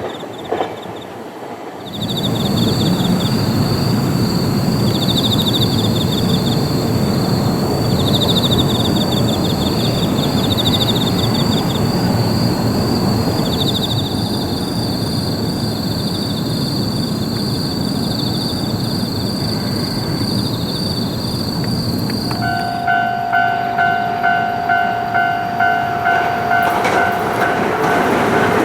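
A train running past on the Sanyo Main Line at night, its loud rumble starting suddenly about two seconds in, while insects chirp high in the background. In the last few seconds a level-crossing bell rings about twice a second.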